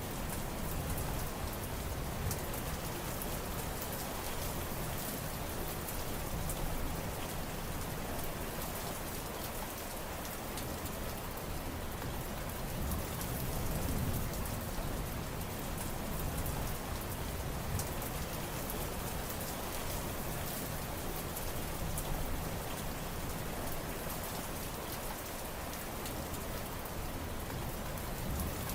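Steady rain falling on surfaces, dense patter of drops over a low rumble that swells and eases every few seconds.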